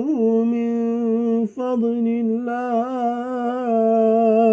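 A man's voice in melodic Quran recitation, holding a long drawn-out note. It breaks off briefly about a second and a half in, then carries on with the pitch wavering in ornaments.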